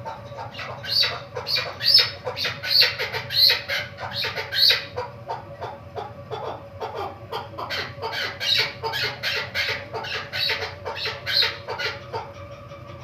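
Female chukar partridge calling: a long run of rapid, repeated short notes that starts about a second in and stops near the end.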